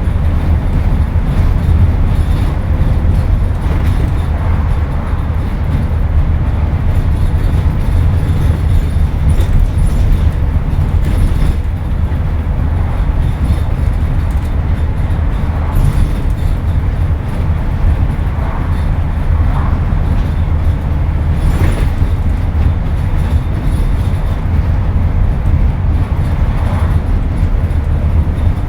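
Scania N230UD double-decker bus's five-cylinder diesel engine running steadily under way, heard from on board as a constant low drone. A few light rattles come through about midway.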